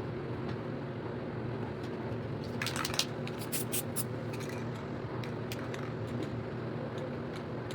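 Short hisses of an aerosol spray-paint can and a few clicks, clustered about a third of the way in, over a steady low hum.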